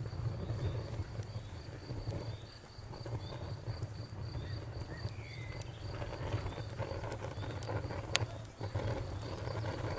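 Campfire burning with a low steady rumble and scattered sharp crackles and pops, the loudest pop about eight seconds in, while crickets chirp in a steady pulsing rhythm.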